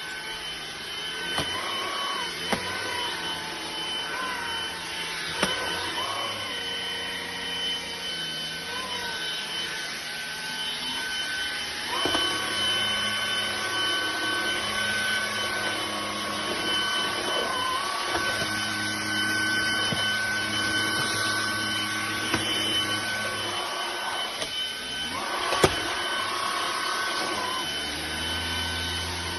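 Cordless stick vacuum running continuously: a steady high motor whine over rushing air, with lower tones shifting as it works. A few sharp knocks, the loudest near the end.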